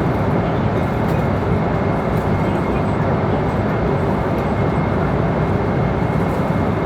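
Airliner cabin noise in flight: the steady rush of airflow and engines, with a faint thin high whine running through it.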